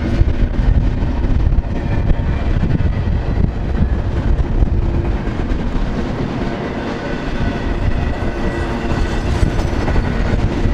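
Double-stack intermodal well cars of a freight train rolling past: a loud, steady rumble of steel wheels on rails, with faint high ringing tones over it.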